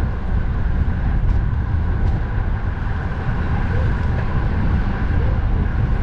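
Wind buffeting the microphone in a heavy, uneven rumble over steady road-traffic noise.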